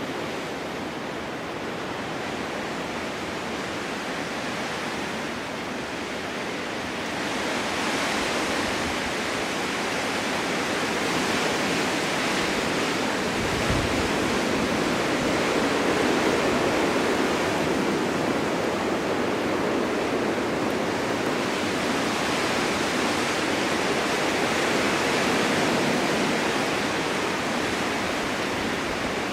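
Wind blowing steadily across snowy open ground, a continuous rushing that builds into a stronger, brighter gust about seven seconds in and holds there before easing slightly near the end.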